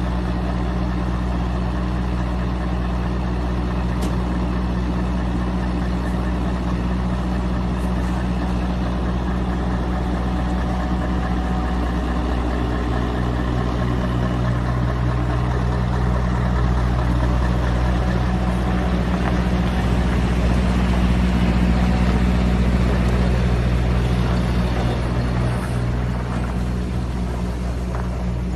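Scania V8 diesel truck engine running steadily with a deep, even note, growing a little louder for several seconds past the middle before settling again.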